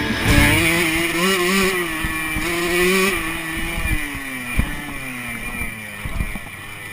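Honda motocross bike's engine heard on board, held high and wavering with the throttle, then falling steadily in pitch and fading from about halfway as the bike slows. A few short thumps from the track come through near the end.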